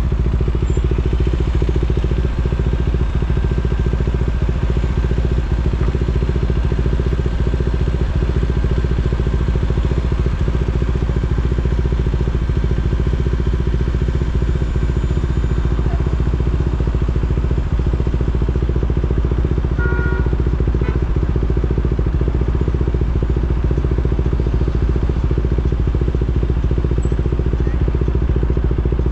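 KTM Duke 390's single-cylinder engine running steadily at low revs, with no revving, as the motorcycle creeps through traffic. A brief beep sounds about two-thirds of the way through.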